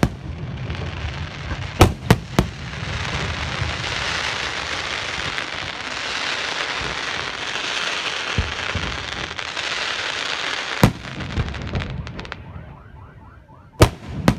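Fireworks going off: three sharp bangs in quick succession as shells burst, then about nine seconds of dense crackling and hissing, then more single bangs near the end.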